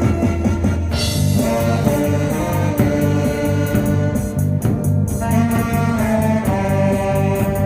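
Live band music: brass horns play a held melody over a steady bass and drum beat.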